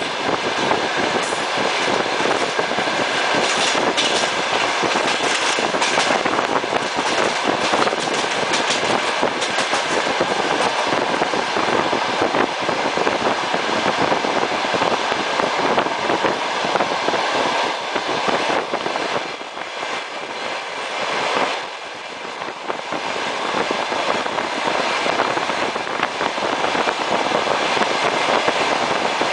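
Passenger train running on the rails, heard from inside the carriage as it pulls away from the station: a steady rumble and rush of wheels on track, with quick clicks over rail joints in the first third. It is quieter for a couple of seconds about two-thirds of the way in.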